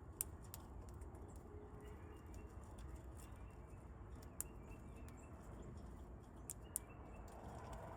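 Faint wild bird chirps with a handful of sharp taps, over a low steady outdoor rumble.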